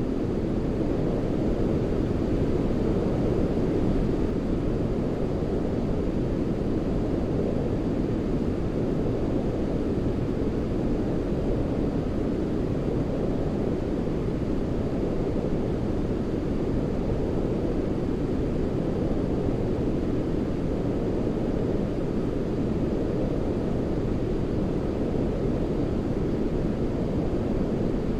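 Steady, unchanging sleep noise with its weight in the low end: a deep, even rush like brown noise rather than a bright hiss.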